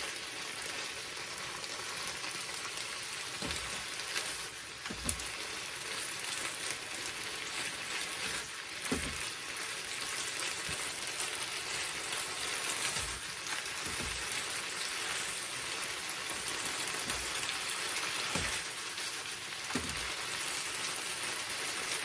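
Hachiku bamboo shoots and fried fish cake sizzling in a frying pan as the last of the braising liquid cooks down. The sizzle is a steady crackling hiss, with a few soft knocks as the food is turned over with chopsticks.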